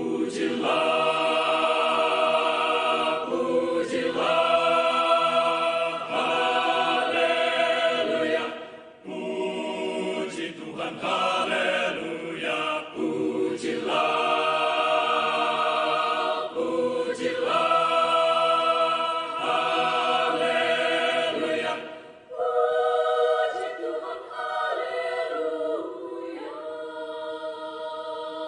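A choir singing in harmony, in held chords and phrases of a few seconds with short breaths between them. It comes to a final stop near the end.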